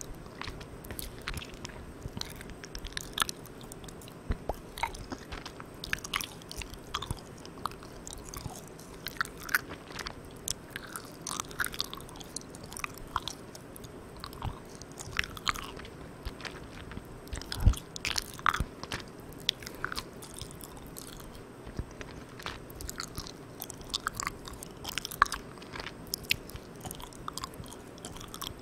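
Close-miked chewing of Malang Cow soft, sticky milk candy: irregular wet mouth clicks and smacks, with one louder click a little past halfway. Underneath is a steady hiss from the recorder's gain turned all the way up.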